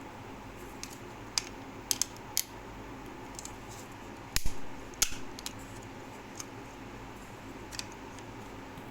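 Plastic clicks and knocks as a snap-on cover is worked onto a 20 A double-pole switch, a handful of sharp ticks with the loudest knock about four and a half seconds in, over a steady low hum.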